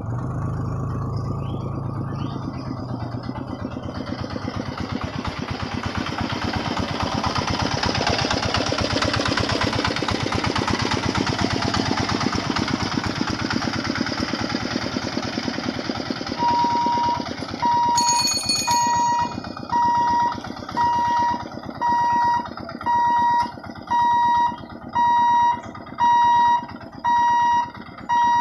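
A train passing at speed, a dense rumble and clatter that builds to a peak about ten seconds in and then eases. From about sixteen seconds in, an electronic warning tone beeps steadily about once a second.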